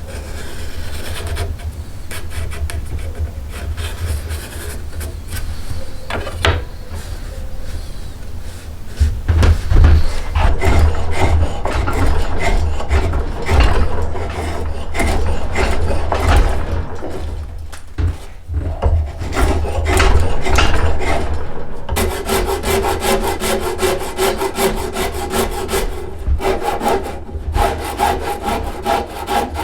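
Hand tool working yew bow wood in repeated rubbing, scraping strokes. The strokes get louder about a third of the way in and turn into a quick, even back-and-forth rhythm with a slight ring near the end.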